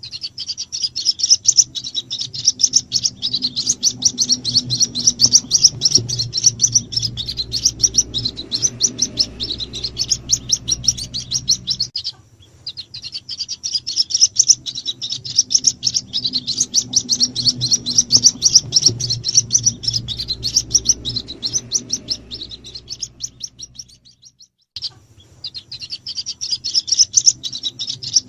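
White-breasted waterhen chicks peeping in a dense, rapid stream of high chirps. It breaks off briefly twice, as a looped lure call used to draw in the parent birds.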